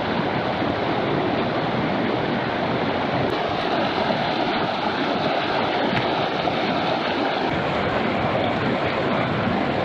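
Steady, even wash of small waves on the shore.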